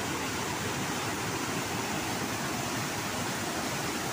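Steady rush of a waterfall and fast river water.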